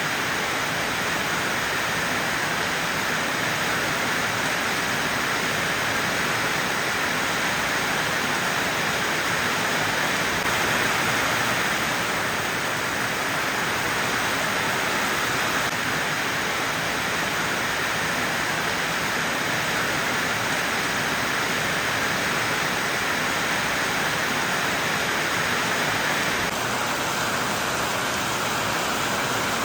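Heavy rain falling steadily, an even hiss with no breaks, dipping slightly in level near the end.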